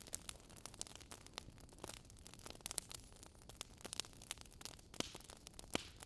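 Campfire crackling: wood burning with a faint hiss and frequent irregular pops and snaps.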